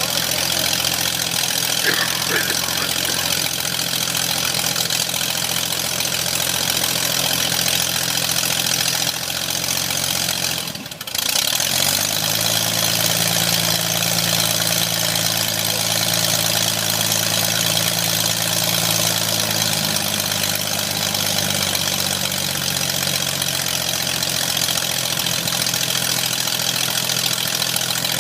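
Air-cooled Corvair flat-six engine of a Pietenpol homebuilt airplane running steadily on its first ground run, with the propeller turning. About eleven seconds in the sound briefly drops and breaks. The engine note then comes back stronger for several seconds before settling again.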